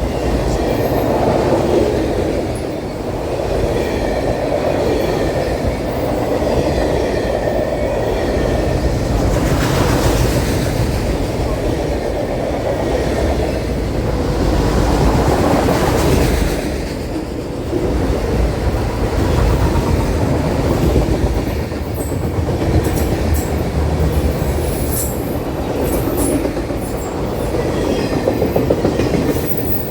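A train rolling past, its cars rumbling and clattering over the rail joints, with a faint wheel squeal in the first several seconds and sharper clicks near the end.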